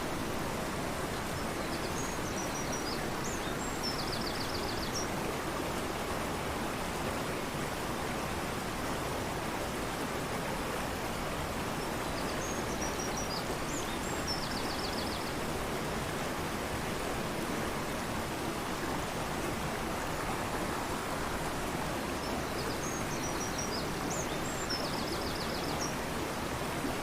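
Steady rush of a fast-flowing river, with a small bird faintly singing the same short high song three times about ten seconds apart, each phrase ending in a quick trill.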